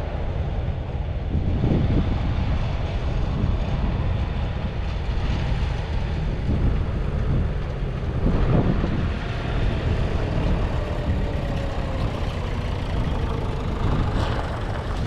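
Vintage diesel tractor engines running as the tractors drive past on the road, with louder swells about two seconds in and again past the middle.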